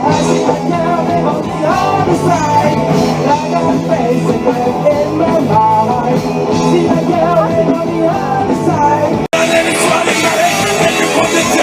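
Live rock band playing with a singer, loud and dense. About nine seconds in it cuts off abruptly and picks up again at another point in the live music.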